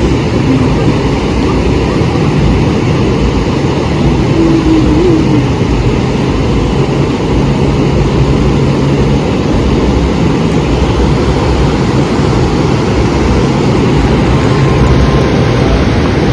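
Wind buffeting the microphone: a steady, loud, fluttering rumble over the wash of the sea.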